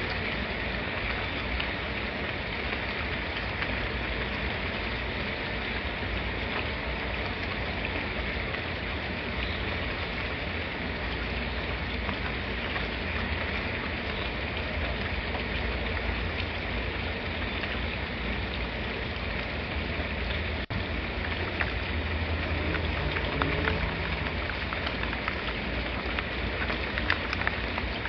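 Steady rain falling, a dense even hiss with a low rumble underneath and scattered individual drops ticking, more of them in the last few seconds. There is a momentary dropout about two-thirds of the way through.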